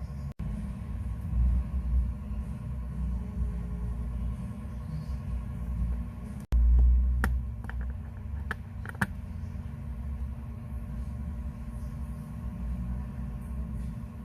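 Steady low rumble with faint hum, cut out briefly twice. A few light, sharp clicks come between about seven and nine seconds in.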